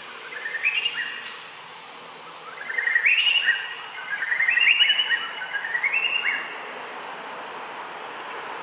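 A bird singing in several short phrases of clear notes that climb in steps, stopping about two-thirds of the way through. A steady high insect drone runs beneath.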